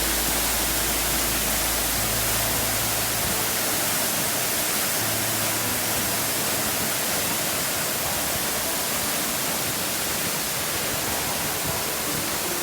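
Steady, even rushing of a waterfall: water falling and splashing.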